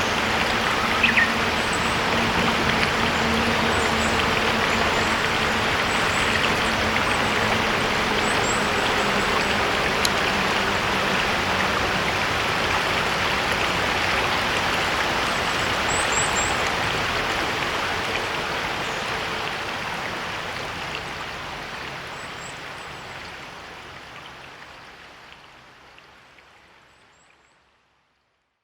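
Riverside stream babbling steadily, with short high bird chirps here and there. The sound fades out gradually over the last ten seconds or so to silence.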